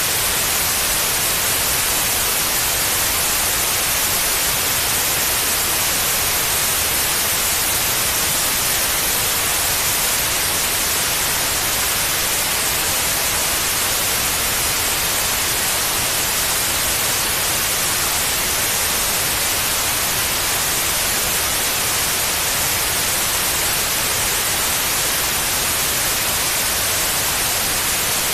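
Steady white noise: an even, unbroken hiss, brightest in the high frequencies, played as a sleep aid for babies.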